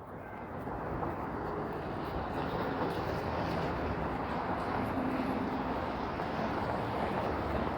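Street traffic: a passing motor vehicle's steady rumble and road noise that builds over the first second or so and then holds.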